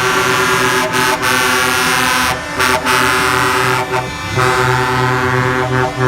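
Truck air horns blowing in long, loud blasts with brief breaks, several horn tones sounding together; a deeper horn joins about four seconds in.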